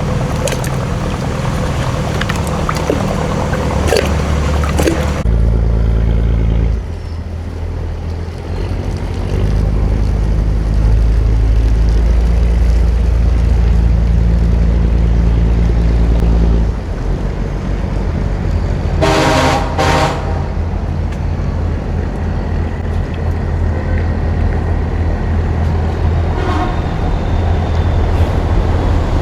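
Boat engine running with a steady low drone. About two-thirds of the way through, a horn gives two short toots.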